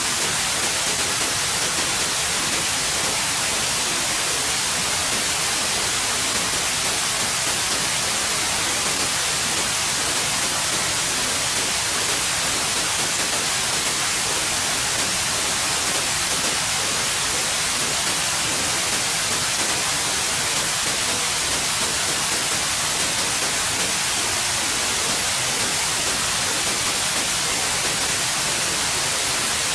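Steady white noise: an even, unbroken hiss, strongest in the high end, with no change throughout.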